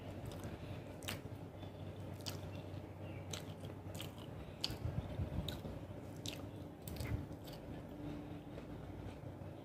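Close-miked chewing of a mouthful of roasted chicken thigh, with short wet mouth clicks scattered irregularly throughout.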